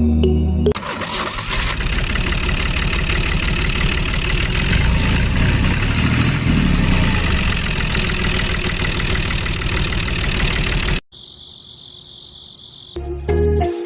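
A motor running hard with a fast, dense rattle, which cuts off abruptly about eleven seconds in. It is followed by a quieter, steady high whine. Background music is heard briefly at the start and again near the end.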